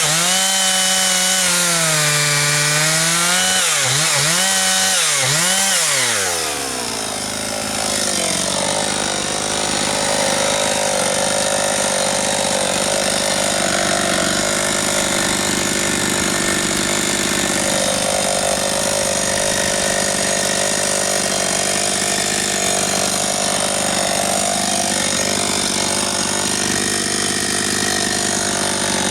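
Husqvarna 272XP 72cc two-stroke chainsaw at high revs, its note rising and falling with a few quick throttle dips. About seven seconds in the pitch drops and it settles into a steady loaded run, chain rasping through firewood.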